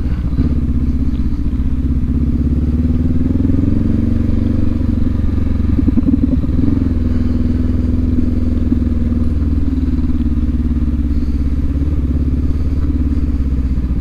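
Adventure motorcycle engine running while riding a trail, its pitch rising and falling gently with the throttle.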